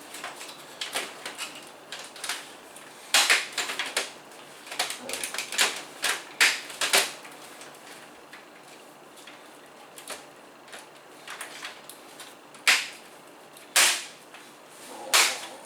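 Computer case parts being handled during a PC build: irregular sharp clicks and knocks of plastic and metal pieces, with a few louder knocks in small clusters and several single ones near the end.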